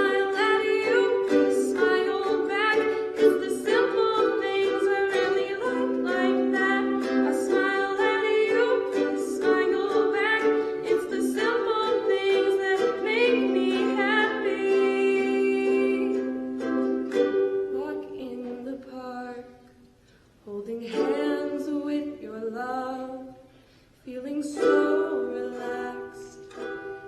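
Live singing accompanied by a plucked string instrument. The music drops away briefly twice in the second half before picking up again.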